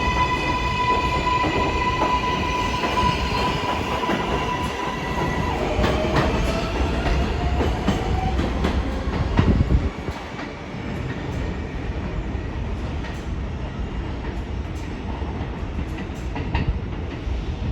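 R188 subway train running through the elevated station, with wheel rumble and clatter on the rails. A steady electric whine from its propulsion cuts off about six seconds in, and a lower tone then rises for a couple of seconds. The whole sound drops a little about ten seconds in.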